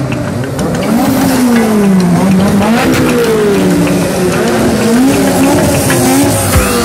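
Car engines revving hard as cars pass one after another, the engine note rising and falling again and again.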